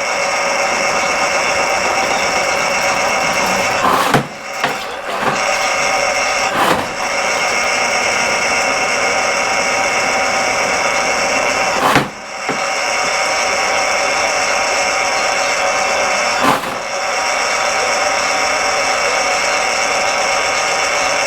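RIDGID K-50 drain cleaning machine running steadily, its electric motor spinning the cable in the drain. A few sharp knocks break in, each followed by a brief drop in the running sound: several about four to seven seconds in, one near the middle and one later on.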